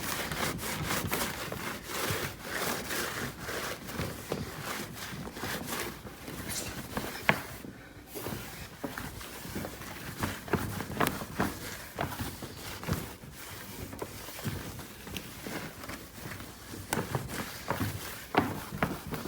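E-Cloth microfibre cloth being wiped and rubbed over a car's surface: a continuous scrubbing noise broken by frequent small knocks and clicks.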